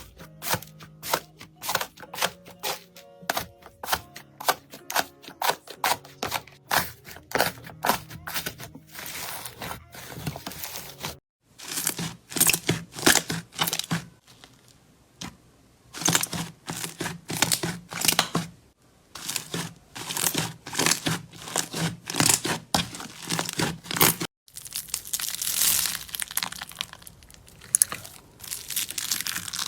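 Slime being pressed, poked and stretched by hand, a fast run of crackling clicks and pops, with short breaks about eleven and twenty-four seconds in. Soft background music plays underneath.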